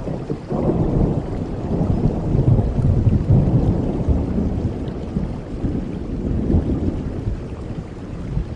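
Thunder rolling over steady rain: a deep rumble that builds about half a second in, peaks a few seconds later with a second swell near the end, and fades away.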